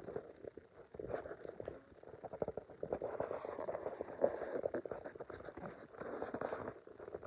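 A sleeping dog snoring: a fluttering rattle with each breath, in a few long snores with short pauses between.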